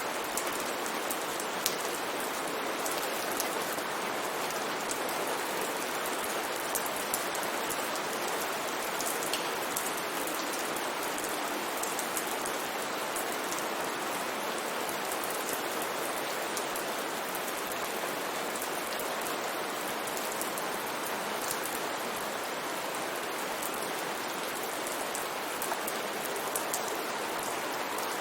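Steady rain falling: an even hiss with scattered sharp drop ticks on top, unchanging throughout.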